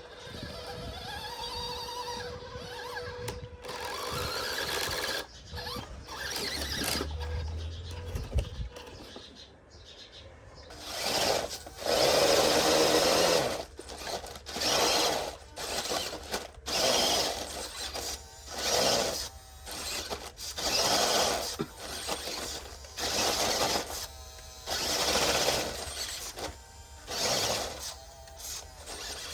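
Electric motor of a radio-controlled off-road truck whining, rising in pitch over the first several seconds, then revving in repeated short bursts about every second or two.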